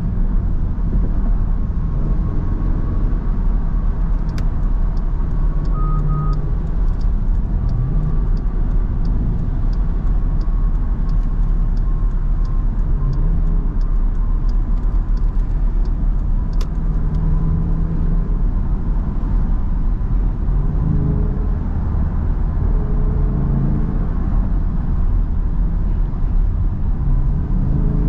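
Steady low engine and road rumble inside the cabin of a Jeep Grand Cherokee SRT driving on wet roads in traffic. From about four seconds in, a run of faint, evenly spaced ticks goes on for roughly ten seconds, and a short beep sounds near six seconds in.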